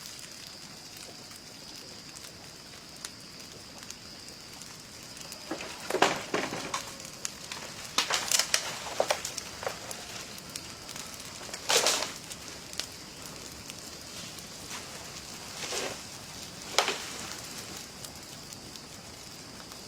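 Intermittent crackling and rustling in several short bursts, the loudest about 6, 8 and 12 seconds in, over a steady high-pitched drone.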